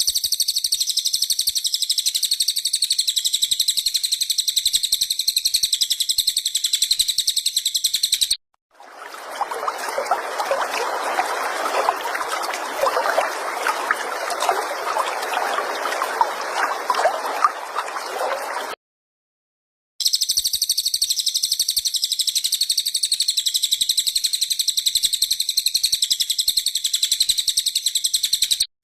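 A cililin's high, rapid, continuous trill, used as a training song for caged songbirds. It is cut off by about ten seconds of trickling, bubbling water in the middle and then comes back.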